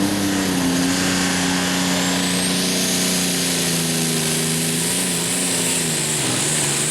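A super stock pulling tractor's engine running hard at a steady high pitch under load during a pull. The pitch sags slightly near the end.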